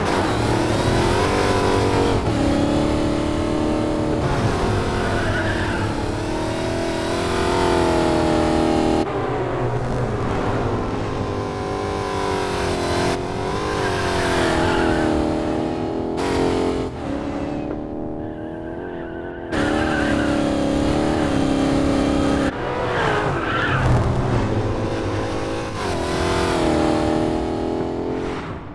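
Dodge Challenger SRT Hellcat's supercharged V8 revving and running hard, its pitch rising and falling again and again, in short takes that cut abruptly from one to the next.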